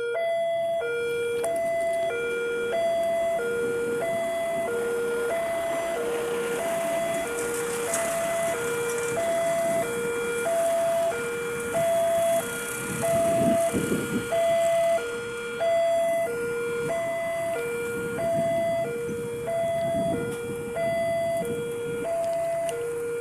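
Railway level crossing warning alarm sounding a steady alternating two-tone electronic signal, high then low, about one cycle a second, over continuous background noise that swells a few times midway.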